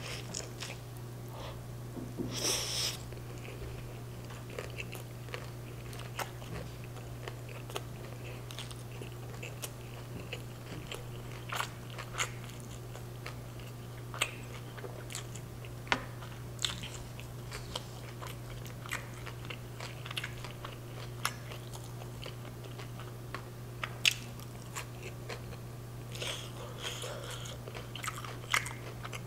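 Close-miked chewing of street tacos, with wet mouth clicks throughout and a louder crunchy bite about two seconds in. Near the end comes more crunching, from bites of raw radish slices. A steady low hum runs underneath.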